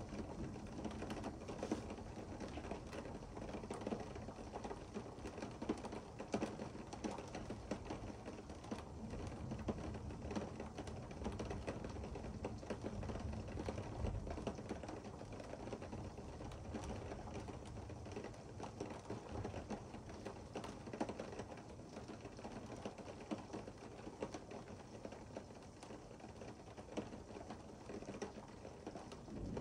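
Rain pattering on a window during a thunderstorm, a dense run of small irregular ticks.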